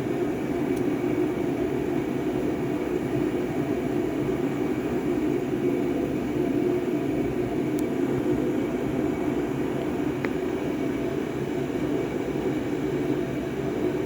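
Steady mechanical drone holding the same pitch throughout, with a couple of faint clicks.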